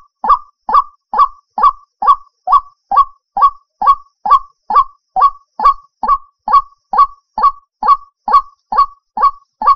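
White-breasted waterhen (ruak-ruak) lure call: one short honking note repeated in a steady, even rhythm a little over twice a second.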